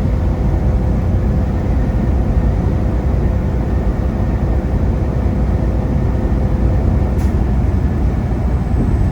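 Semi truck running down the interstate, heard from inside the cab: a steady, deep engine and road rumble. A faint steady hum in it stops about seven seconds in, just before a brief light click.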